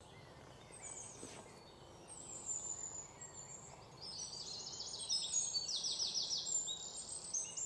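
Birdsong: high chirps and rapid trills of quickly repeated notes over a faint hiss, growing busier about four seconds in.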